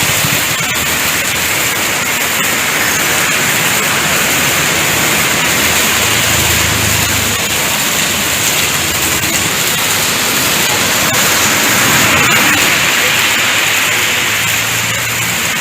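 Loud, steady rush of water in a heavy downpour, an even hiss that does not let up. A low hum rises under it briefly about six seconds in and again near the end.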